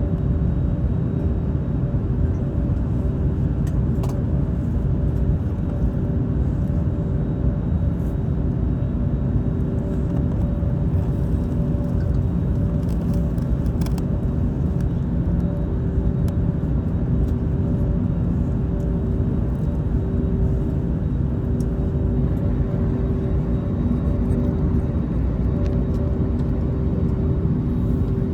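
Steady cabin noise of an Airbus A321 heard from inside: a deep rumble from the engines and airflow with a few steady humming tones, without rising or falling. A few faint clicks sound now and then.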